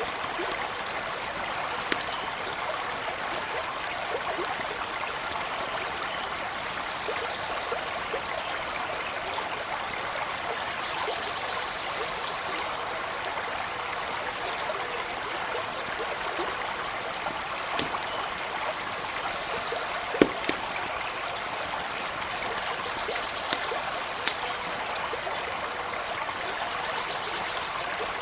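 Small stream running and trickling steadily, with a few sharp crackles from a campfire popping over it.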